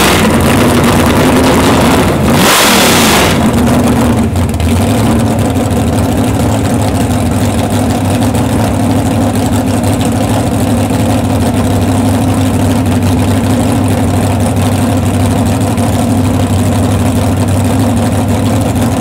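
Supercharged 541 cubic inch Hemi V8 on an engine run stand, running through open headers: a rev dies away at the start, a second sharp rev of about a second comes about two seconds in, and from then on the engine idles steadily.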